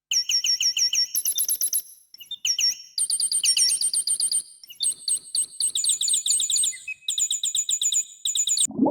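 Small songbird singing in fast trills of high, evenly repeated chirps, switching pitch from one phrase to the next, with brief pauses about two seconds and four and a half seconds in; the song stops just before the end.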